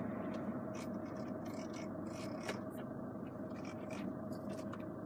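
Steady hum of the car running, heard inside its cabin, with a few faint clicks.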